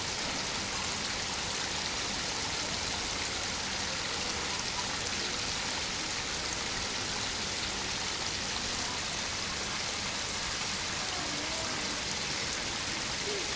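Spring water flowing steadily out of a spring source into a pond, an even splashing rush.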